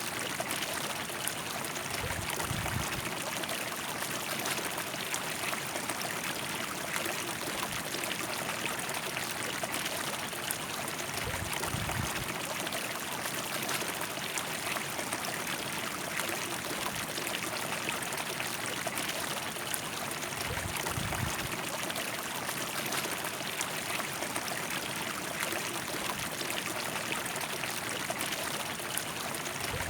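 River water flowing and splashing over rocks, a steady, dense rushing. Brief low rumbles come in about every nine seconds.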